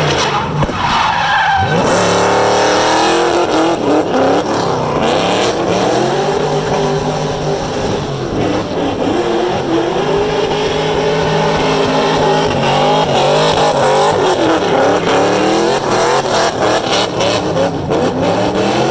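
V8 engine of a V8-swapped BMW 3-Series coupe drifting, revving up and down again and again with its tyres skidding and squealing.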